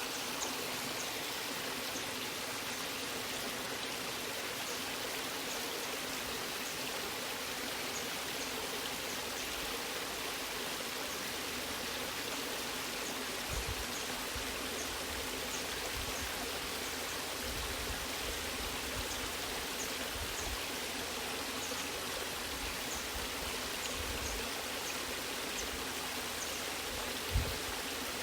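Waterfall rushing steadily, an even wash of falling water with no pauses, and a brief low thump near the end.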